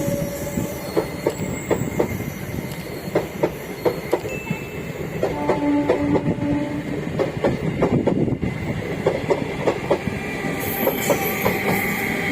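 Passenger train running through a station without stopping, its wheels clicking irregularly over the rail joints, with a brief steady tone about halfway through.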